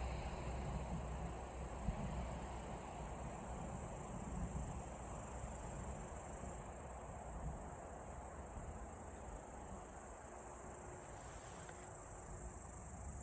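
Crickets trilling steadily, with a low rumble underneath that fades away over the first half.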